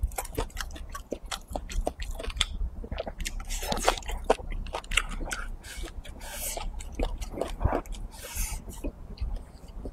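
Close-up chewing and lip-smacking of a person eating braised pig's trotters and rice, a steady run of short mouth clicks and smacks with a few longer slurps.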